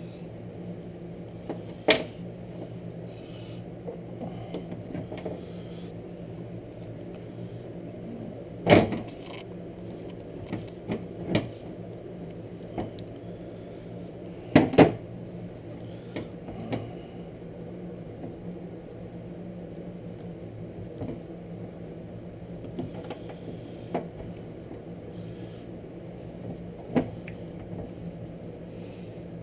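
Scattered sharp clicks and knocks of small metal parts and tools being handled, a dozen or so at uneven intervals and loudest about a third and half of the way in, over a steady low hum.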